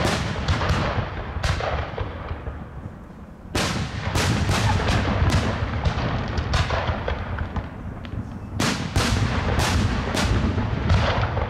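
Aerial firework shells bursting in a display: a rapid series of sharp bangs, each with an echoing tail. They come in three volleys, with short lulls about two seconds in and again around eight seconds.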